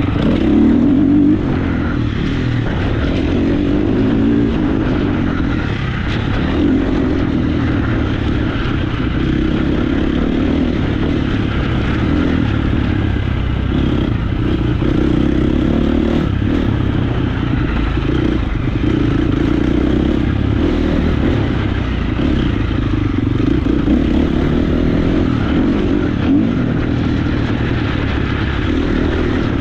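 Motocross bike engine running hard on a dirt track, its revs rising and easing every few seconds.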